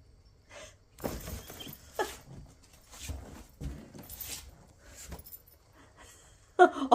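Shopping bag rustling and crinkling in a run of short bursts as a cat scrambles about inside it, with a brief squeak about two seconds in. The owner takes the scramble for the cat snagging a paw in the bag.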